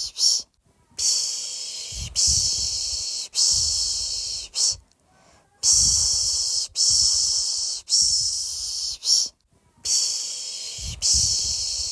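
A person shushing a baby to sleep: repeated 'shhh' hushes about a second each, three in a row then a short one, with a brief pause every four to five seconds.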